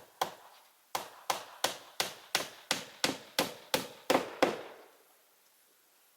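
Hammer striking wood: a couple of blows at the start, then a steady run of about eleven even strikes, roughly three a second, stopping about four and a half seconds in.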